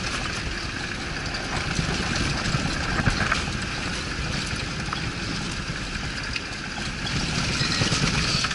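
Off-road vehicle driving over a rough country road: steady engine and road noise with scattered small rattles.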